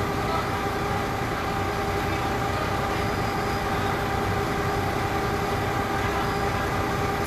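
Heavy vehicle engine running steadily, with a steady whine held over the engine noise.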